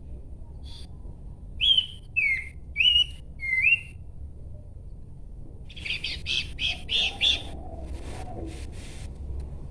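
Abbott's babbler (pelanduk semak) singing: four loud, clear whistled notes, some rising and some falling in pitch, from about one and a half to four seconds in. A quick run of short chattering notes follows around six to seven seconds in.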